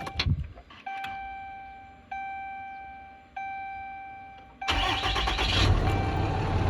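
A dashboard warning chime sounds three times, each tone dying away, about a second and a quarter apart. Then, a bit over four and a half seconds in, the 2010 Dodge Ram 3500's engine starts and keeps running. The owner says the hissing noise under the dash is now gone.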